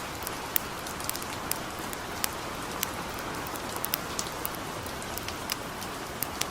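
Steady hiss of light rain with sharp, irregular crackles and pops from a campfire, a few each second.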